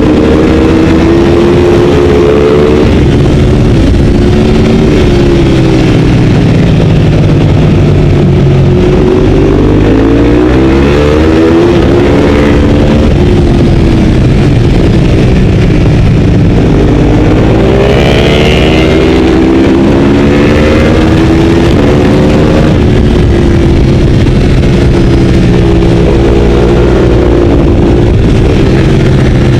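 Ducati 848's 90-degree L-twin engine at racing speed, very loud, its pitch climbing under hard acceleration and dropping away several times as it runs through the gears and slows for corners, with a heavy rush of wind.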